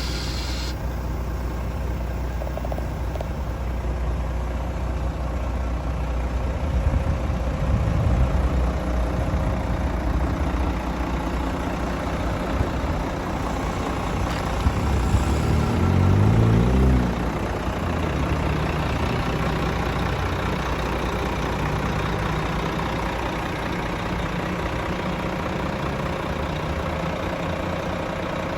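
Garbage truck's diesel engine idling steadily. Its pitch and level rise to a short rev about sixteen seconds in, then cut back suddenly to idle, with a couple of sharp knocks just before.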